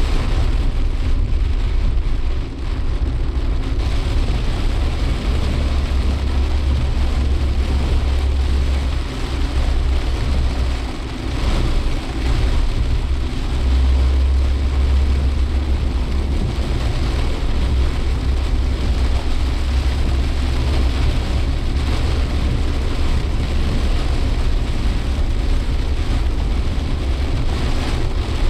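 Cabin noise of a Suzuki Jimny Sierra on the move: steady engine and road noise with a heavy low rumble that swells and eases, and rain on the car.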